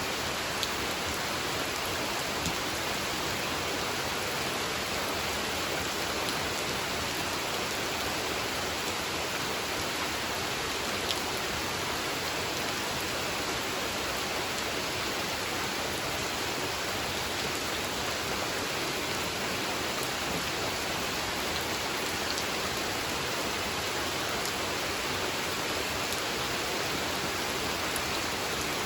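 Steady rain falling on a pond, an even hiss with a few faint single drop ticks.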